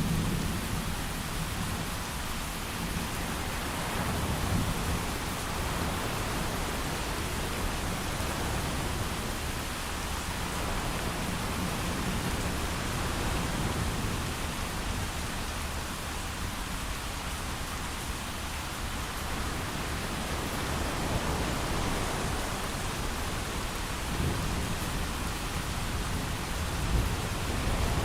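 Thunderstorm: heavy rain falling steadily, with low thunder rumbling underneath, a little louder near the end.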